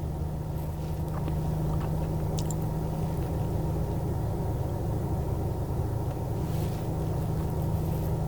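Steady low rumble of a car heard from inside the cabin, with a few faint clicks in the first couple of seconds.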